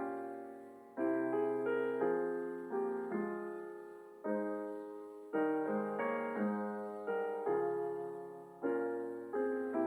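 Slow, gentle solo piano music: sustained chords struck about once a second, each ringing on and fading away.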